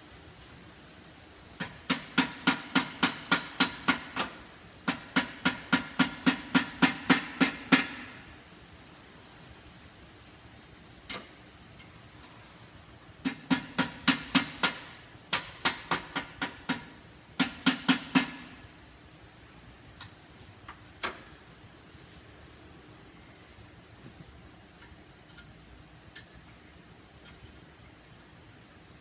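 Repeated strikes on a 1982 Honda CM450E motorcycle's exhaust, hit to knock it free because it is stuck. The strikes come in quick runs of about four a second, two long runs early on and three shorter runs later, with a few single strikes in between.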